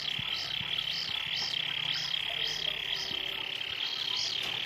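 A baby kingfisher chick calling: a continuous high buzz overlaid with rise-and-fall notes repeating about twice a second, a call likened to an alarm. The chick makes it in the throat without opening its beak.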